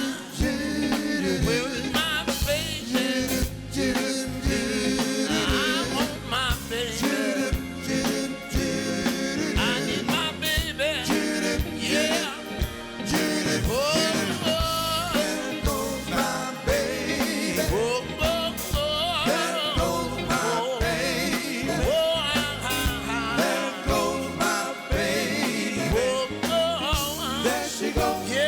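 Live soul band playing, with a wavering lead vocal over the drums and bass.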